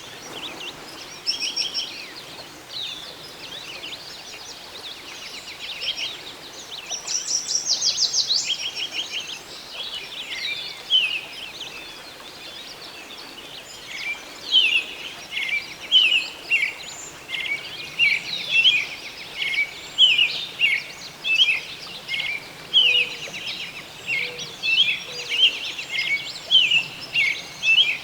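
Songbirds calling and singing: scattered chirps, a fast trill about seven seconds in, then a long run of short down-slurred chirps repeated every second or so from about halfway on. Under it runs a faint steady rush of a stream.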